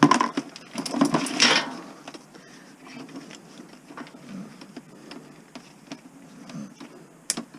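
Clicks and rattling from a Christmas-light string's plastic sockets and wire being handled and pulled apart, with a louder scraping burst about a second in.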